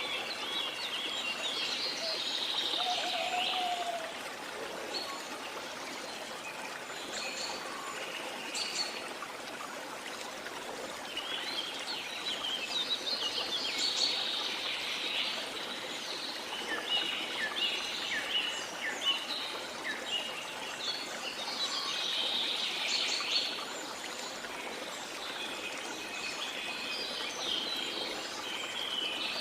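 Steady rush of a flowing river, with rain forest birds chirping and calling over it in several bouts.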